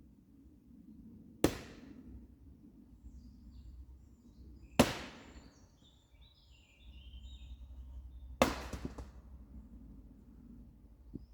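Three sharp, loud knocks of firewood logs, evenly spaced about three and a half seconds apart, each ringing out briefly.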